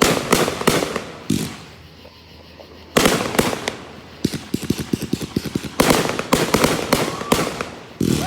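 Fireworks going off: a few sharp bangs near the start, a fresh volley about three seconds in followed by a quick run of small crackling pops, then more bangs near the end.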